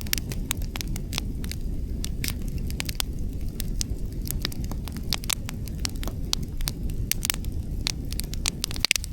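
Wood campfire crackling, with many sharp pops several times a second over a steady low rumble. A quick cluster of louder pops comes near the end.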